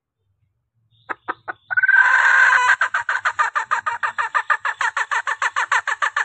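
Female junglefowl calling: after about a second of quiet, three short clucks and a drawn-out squawk, then a fast, even run of clucks, about seven a second. It is the hen's call used as a lure to draw in cock birds.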